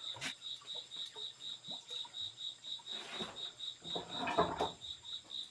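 An insect, cricket-like, chirping steadily in an even high-pitched pulse of about five chirps a second. A click comes just after the start, and a louder rustling scrape comes about three seconds in and again, loudest, a second later.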